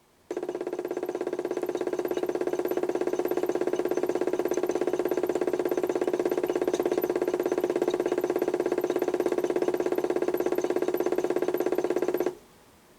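HUSTOO 775 DC motor in a modified toy washing machine running on PWM drive for one wash-cycle run: a steady pitched hum with a rapid flutter. It starts abruptly, holds a constant pitch with slightly rising loudness, and cuts off suddenly after about twelve seconds.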